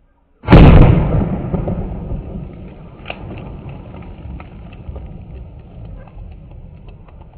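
A homemade bottle bomb bursting with one very loud bang about half a second in, followed by a rumbling tail that fades slowly, with scattered small ticks.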